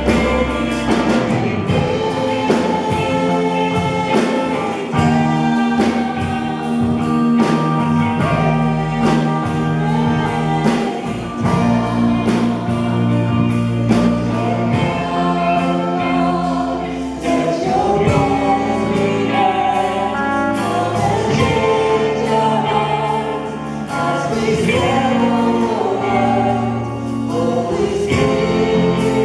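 Christian worship music: voices singing a praise song together over instrumental accompaniment.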